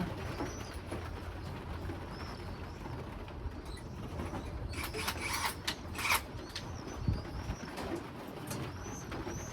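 Domestic pigeons cooing, with short high chirps repeating throughout. A quick run of sharp clicking knocks comes about five to six seconds in, and a single thump just after seven seconds.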